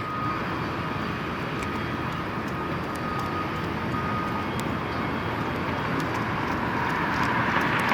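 Steady outdoor urban background noise: a continuous rushing hum, growing slightly louder, with a faint thin high tone through the first half.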